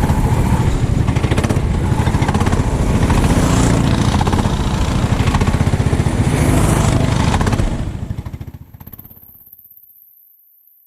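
Engine of a 390cc kart running hard, with a rapid pulsing beat, then fading away to near silence about eight seconds in.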